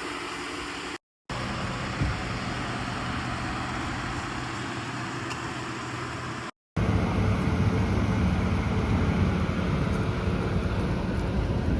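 A vehicle running, with a steady low engine hum and road noise, cut off twice for a moment and noticeably louder after the second break about seven seconds in.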